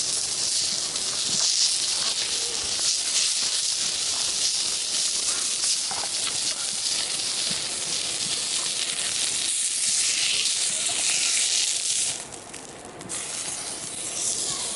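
A steady high hiss, such as sizzling on a hot griddle or rushing river water, that drops away sharply for about a second near the end.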